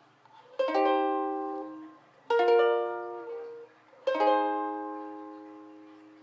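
Ukulele strumming three chords, one every couple of seconds, each left to ring and fade. The third chord rings the longest.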